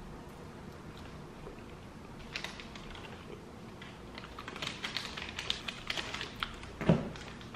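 Close-up chewing of a dense mocha coffee bar with chocolate chips: soft, irregular wet mouth clicks that grow busier in the second half, with one louder low thump near the end.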